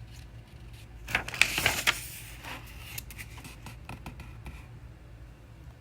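A picture book's paper page being turned: a short rustle about a second in, followed by a few faint paper ticks, over a steady low hum.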